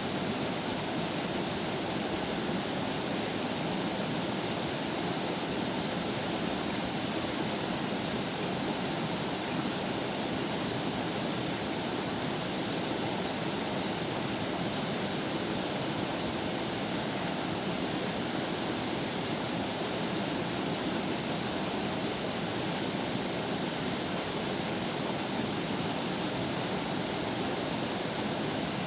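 River water flowing over rocks, a steady rushing that does not change.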